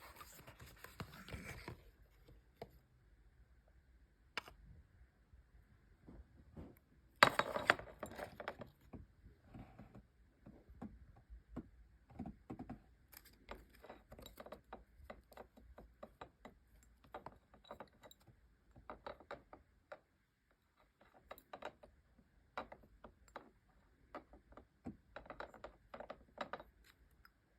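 Miss Dior perfume packaging being handled and opened by hand: scattered small clicks, taps and rustles of cardboard and wrapping, with a louder rustling burst about seven seconds in.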